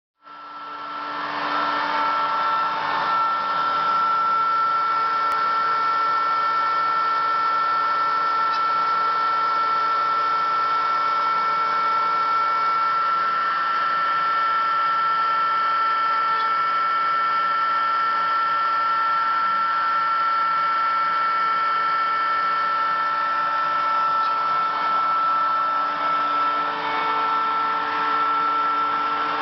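Homemade CNC machine running, with a steady high motor whine over a hiss that reaches full level in the first two seconds; a second, lower tone drops in and out.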